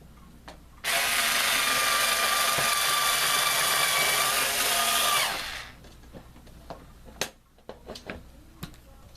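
Electric power screwdriver running steadily for about four and a half seconds, starting suddenly about a second in and winding down, followed by light clicks of handling.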